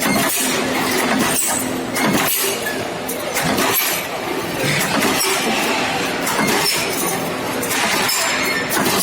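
Fence post roll forming line running: a steady machine hum under a dense noise of metallic clinks and clatter as the steel strip goes through the rollers.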